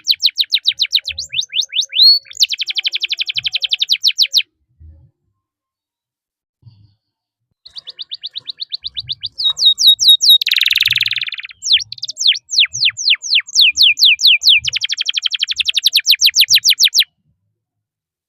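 Domestic canary singing long rolling trills of rapid, repeated, high downward-sweeping notes. It pauses for about three seconds, then sings again with a short harsh, buzzy note in the middle of the second phrase.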